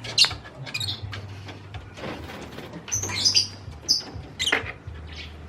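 Handling noises while a pigeon is held and dosed: scattered clicks and rustles, with a few short high squeaks about three and four seconds in, over a low steady hum.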